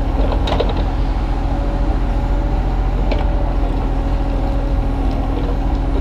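Kubota U35-3 mini excavator's diesel engine running steadily under working load, with a steady hydraulic whine, as it digs. A couple of short knocks come about half a second and three seconds in.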